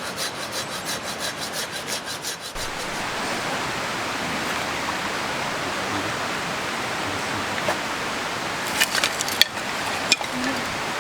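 Fast, rhythmic scraping strokes on wood, about six a second, stopping about two and a half seconds in. After that comes a steady rushing noise, with a few sharp clicks near the end.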